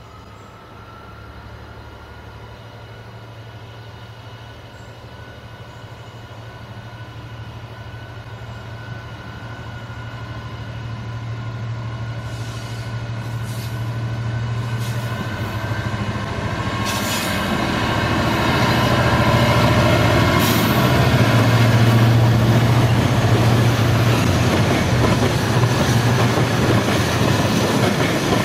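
Freightliner Class 66 diesel locomotive on a freight train, its two-stroke EMD diesel engine running with a steady low hum that grows steadily louder as it approaches and passes. From about halfway through, the wheels clatter and click over the rails as the wagons roll by.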